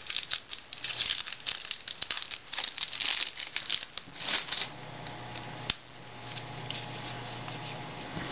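Baseball cards and pack wrapping being handled: rapid rustling and crinkling for about the first four and a half seconds, then a single sharp click near six seconds in over a faint steady hum.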